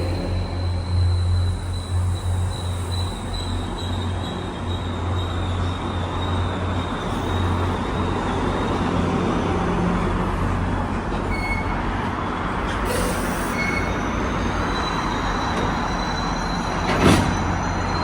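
A train running on rails, with a thin, high, steady wheel squeal through the first several seconds, and a single sharp click near the end.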